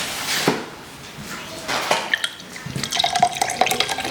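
Milk tea being poured from a takeaway cup into a glass, liquid splashing and trickling, busier in the second half.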